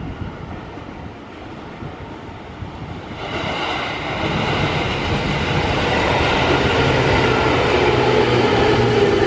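A Senseki Line train approaching along the track, its running noise swelling from about three seconds in and still growing louder, with a steady whine over the rush of the wheels near the end.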